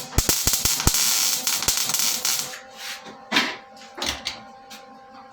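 Welding arc crackling and hissing for about two and a half seconds as a strap is tacked on, then two short bursts of welding.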